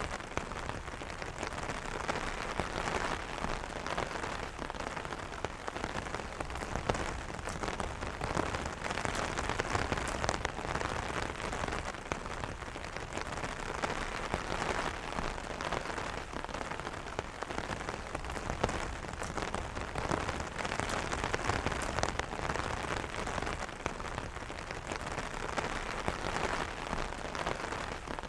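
Gentle rain pattering steadily on an umbrella canopy: a dense, even patter of many small drop impacts.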